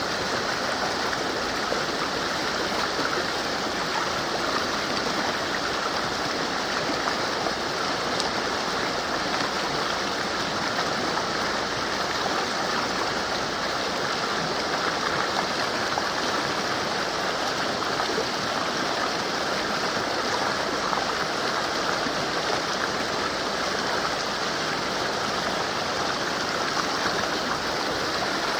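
Mountain river rushing over rocks: a steady, even roar of running water that does not change.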